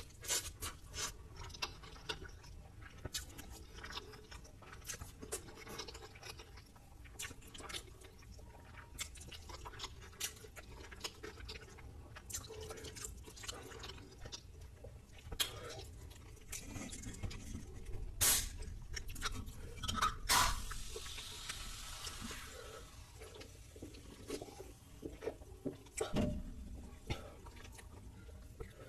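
Close-miked chewing of food, with many short crisp clicks and crunches. There is a louder stretch of eating sounds about 18 to 22 seconds in.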